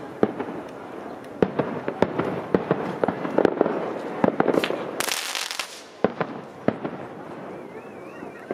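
Fireworks display: a rapid run of sharp bangs from aerial shell bursts over a crackling haze. A loud hissing rush comes about five seconds in, then the bangs thin out.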